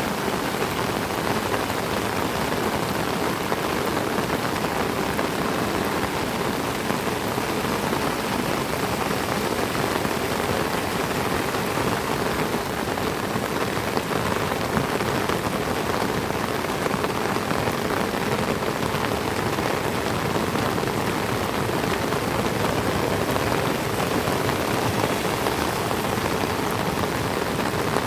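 Heavy tropical rain falling steadily on trees and foliage, a dense, even hiss with no letup.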